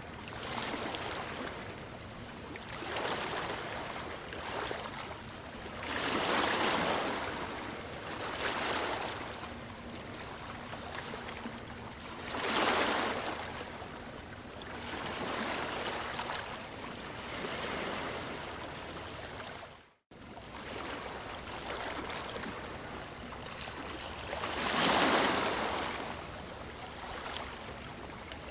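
Ocean waves breaking on a beach: rushing surf that swells and fades every few seconds, with three bigger breakers. A sudden brief dropout to silence comes about two-thirds of the way through.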